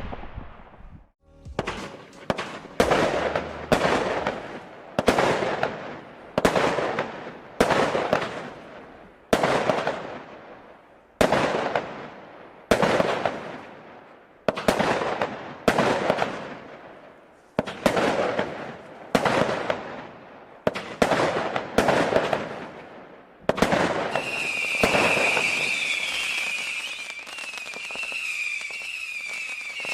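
Consumer firework battery firing shot after shot at a steady pace, about fifteen bangs each trailing off in crackle and echo. About 23 seconds in, the bangs stop and give way to a continuous hiss with a wavering whistle.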